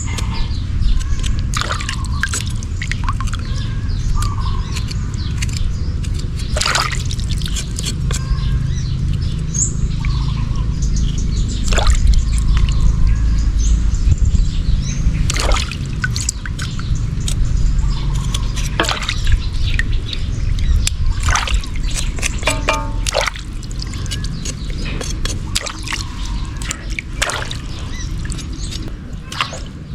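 Water sloshing and dripping, with many sharp clicks and knocks of things being handled, over a steady low rumble. Faint bird chirps come through now and then.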